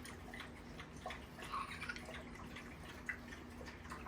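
Faint, irregular light clicks and taps over a steady low hum, with a soft squeak about a second and a half in.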